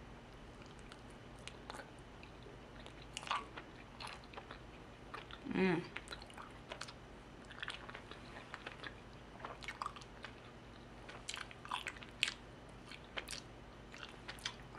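Close-up mouth sounds of chewing raw honeycomb: faint wet smacks and sticky clicks, scattered irregularly, as the tough beeswax is worked between the teeth. A brief hum of the voice a little before the middle is the loudest moment.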